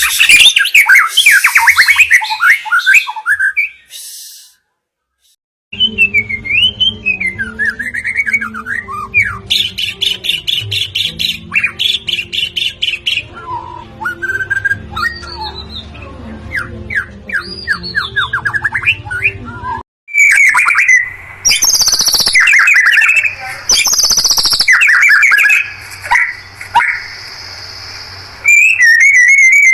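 White-rumped shama (murai batu) singing a loud, varied song of gliding whistles and rapid rolling trills with rough notes. It comes in spliced stretches: a brief silence about four seconds in and an abrupt change of recording about twenty seconds in.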